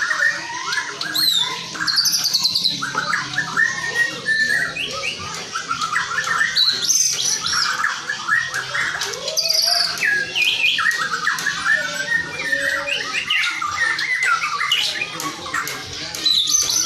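White-rumped shama (murai batu) singing a continuous, rapid, varied song of whistles and chirps.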